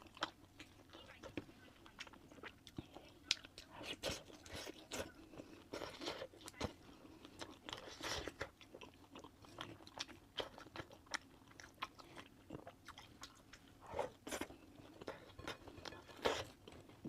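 A person eating braised meat: chewing and biting, with many short, irregular wet clicks scattered throughout.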